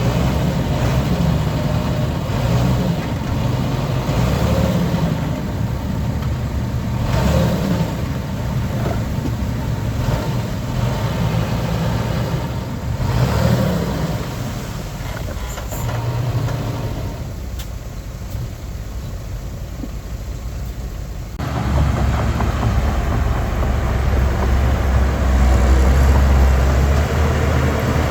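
Heavy diesel engines of a bulldozer and dump trucks running, swelling and easing with load. About 21 seconds in the sound changes abruptly to a louder, deeper engine note.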